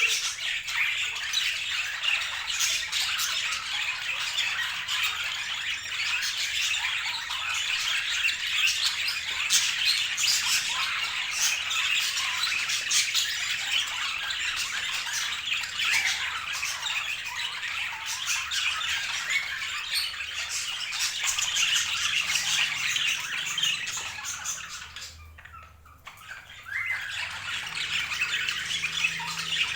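Budgerigars chattering and squawking in a dense, continuous stream of chirps, with a brief lull about four seconds before the end.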